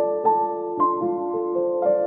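Gentle background piano music, single notes struck every few tenths of a second and left to ring.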